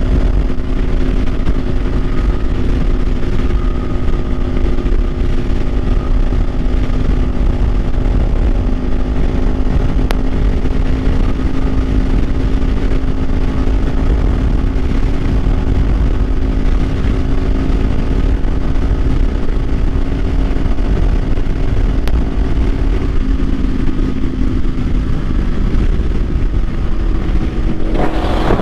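Kawasaki Ninja 500's parallel-twin engine running at a steady cruise under heavy wind rumble on the microphone. The engine note drops in pitch near the end as the bike slows.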